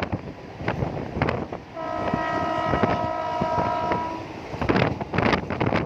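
Wind buffeting the microphone, with a steady horn blast of several tones held for about two seconds in the middle.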